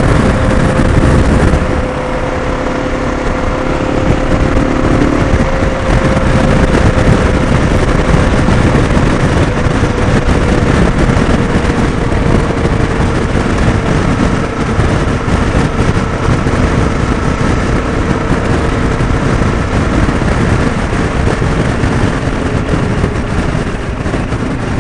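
Steady wind rush and road and engine noise of a motorcycle underway, with a faint held tone that slowly sinks in pitch.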